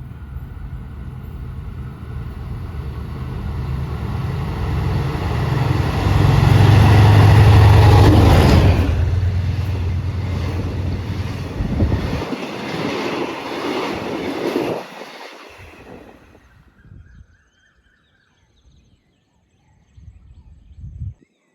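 Diesel-hauled train passing close by: the locomotive's engine builds to a loud, low drone about eight seconds in, then the cars clatter past over the rails and the sound dies away by about three-quarters of the way through, leaving only a faint low rumble near the end.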